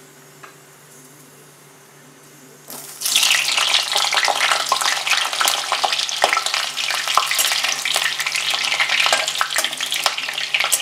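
Halved potatoes going into hot mustard oil in an aluminium kadai: a sudden burst of sizzling almost three seconds in, then steady loud frying with the taps and scrapes of a steel spatula turning them.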